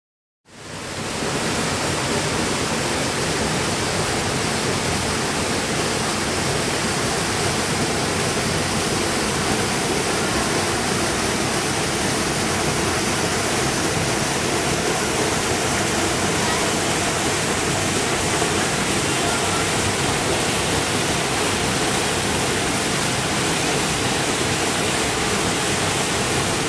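Waterfall pouring: a steady, even rush of falling water that fades in about half a second in.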